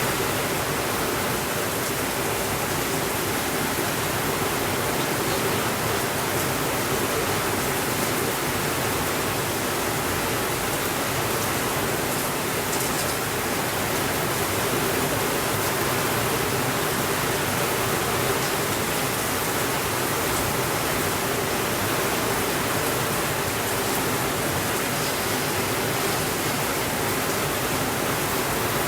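Steady heavy rain, a dense even hiss with no thunder.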